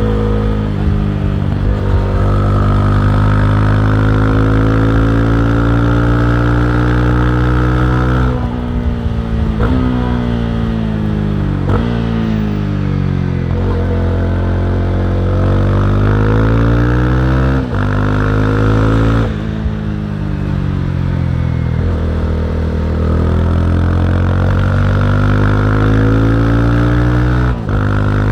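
Honda CB300R's single-cylinder engine running under way. Its pitch holds steady for several seconds, then drops and climbs again, with a few brief breaks in the sound, as on closing and reopening the throttle around gear changes.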